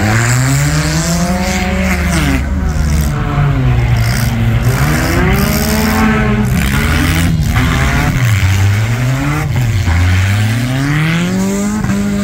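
Four-cylinder figure-8 race cars' engines revving up and down over and over as they accelerate and back off around the track. The pitch keeps rising and falling every second or two.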